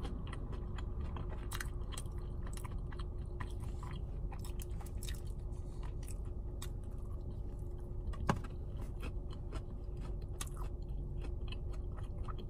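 A person chewing a fried, breaded chicken tender close to the microphone: irregular wet smacks and mouth clicks, with one louder click about eight seconds in, over a faint steady hum.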